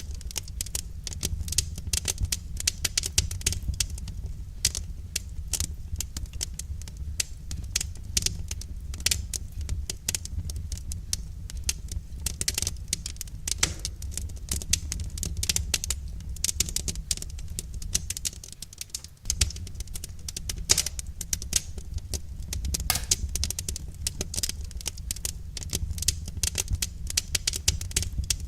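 Wood fire crackling: a dense, irregular stream of small snaps and pops over a steady low rumble of the flames, easing off briefly a little past the middle.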